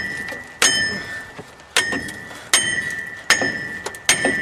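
A big hammer striking a metal part of a truck's four-wheel-drive axle, five evenly spaced blows, each leaving a ringing metallic tone.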